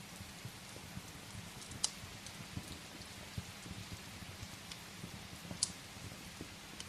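Steady rain pattering against a window, with a wood fire crackling in a fireplace. Two sharp pops from the fire, about two seconds in and about five and a half seconds in, are the loudest sounds.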